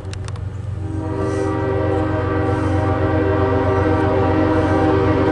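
Loaded CSX coal train approaching, its lead diesel locomotive sounding a long, steady horn blast over the low rumble of the engines, growing louder as it nears.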